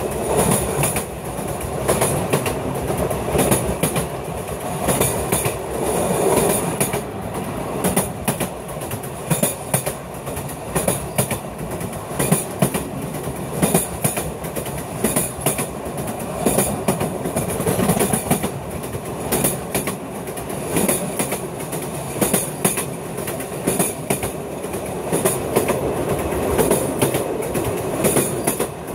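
Narrow-gauge Sóller railway train running at speed, heard from outside the carriage: a steady rumble of wheels on the rails with a rapid, uneven clatter of rail joints and rattling carriage parts.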